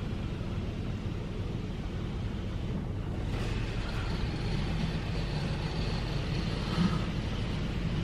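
Belanger Saber automated tunnel car wash running: a steady low rumble of the equipment, with a hiss joining about three seconds in and carrying on.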